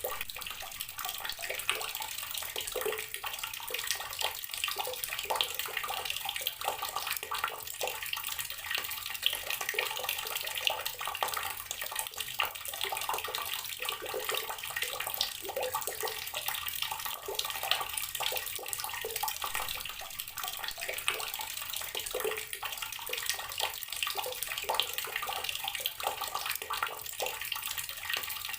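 Water tap running steadily, its stream splashing and spattering onto a hard surface below.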